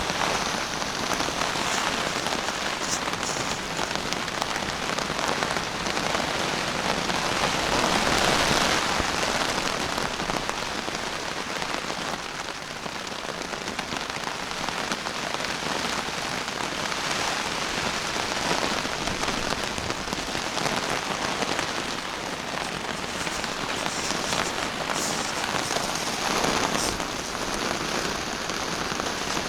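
Heavy rain falling on a tarp shelter: a dense, steady hiss of rain that swells louder for a few seconds about eight seconds in and again near the end.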